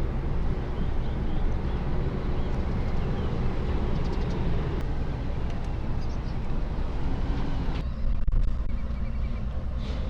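Large diesel engines running with a steady low rumble and a hiss of noise above it. About eight seconds in, the higher part of the sound drops away abruptly while the low rumble carries on.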